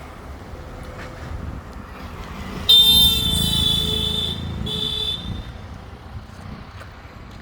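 Vehicle horn sounding twice, a long blast of about a second and a half followed by a short one, over a low engine rumble.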